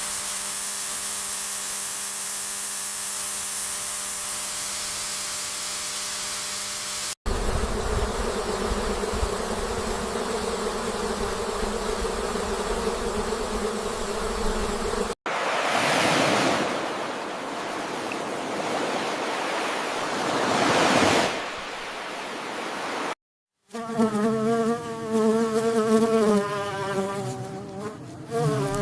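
Insect buzzing in several short clips that are cut abruptly from one to the next: a steady hum, then a denser drone, then two whooshing swells, and near the end a buzz whose pitch wavers.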